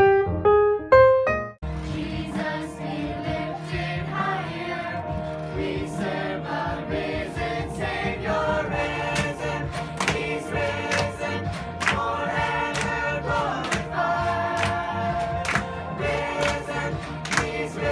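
A few piano notes that cut off abruptly about a second and a half in, then a choir singing a worship song over percussion and accompaniment.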